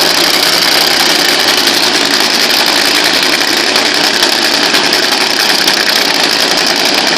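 A car engine running loudly and steadily, with a fast even pulsing.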